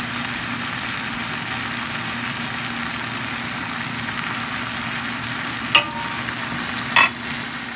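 Layers of fried potato and eggplant sizzling in fat in a pot on a hot electric hob, a steady frying hiss over a faint low hum. Two sharp clicks break in about six and seven seconds in.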